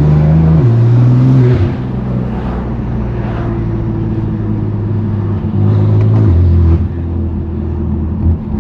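Straight-piped 2018 BMW F80 M3 Competition's S55 twin-turbo inline-six running loud at low city speed. It is louder in two short stretches, near the start and around six seconds in, and steps down in pitch a few times.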